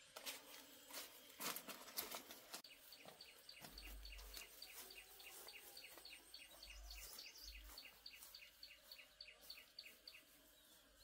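Faint rapid series of short, high chirps from a small bird, about five a second, lasting several seconds. A few light clicks and knocks come in the first few seconds.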